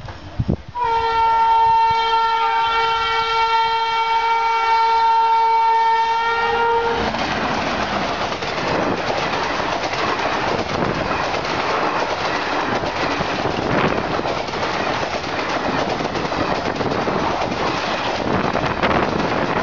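WAP4 electric locomotive's horn sounding one long chord for about six seconds, its pitch sagging slightly near the end. Then the rush and rapid clickety-clack of the train passing at about 110 km/h.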